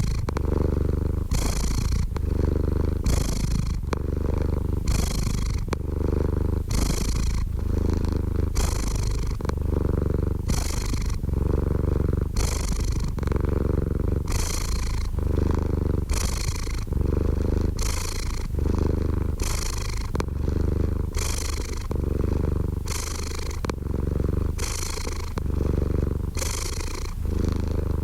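Domestic cat purring steadily and close up, the purr swelling and easing with each breath in and out, about once a second.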